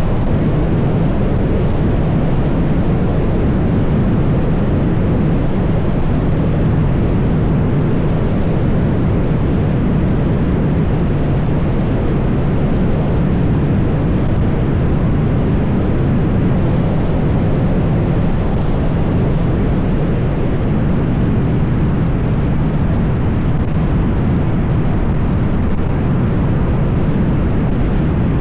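Wind rushing over an action camera's microphone while riding a Yamaha TMAX 560 maxi-scooter at speed, a steady roar with the scooter's running and road noise mixed in.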